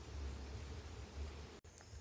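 Faint outdoor ambience: a low rumble with a thin steady high-pitched insect tone. The sound cuts off abruptly about one and a half seconds in, and a pulsing insect chorus follows.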